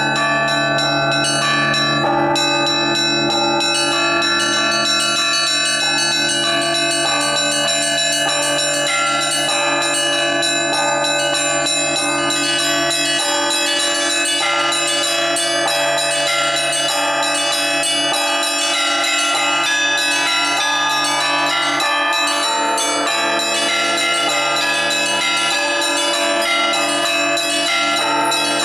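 Russian Orthodox church bells played by a single bell ringer: the small bells are struck in quick, continuous patterns over the steady ringing of the larger, deeper bells.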